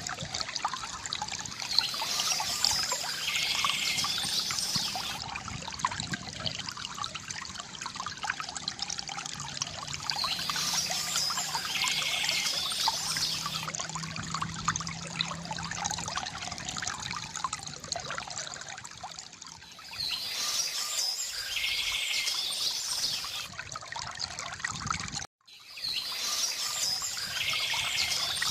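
Small stream trickling and pouring steadily, with a bird calling four times at even spacing of about eight seconds. The sound breaks off for a split second near the end.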